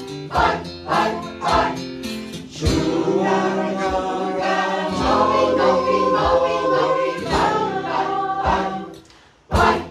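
Choir singing a traditional Yugambeh-language chant over a regular percussive beat. Near the end the singing stops and a couple of separate sharp beats sound.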